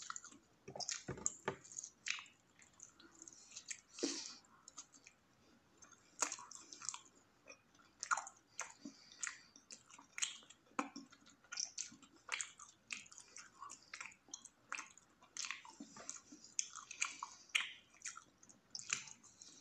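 Close-up mouth sounds of a person chewing bites of a wrapped flatbread sandwich: irregular wet smacks and small clicks of the lips and mouth, several a second.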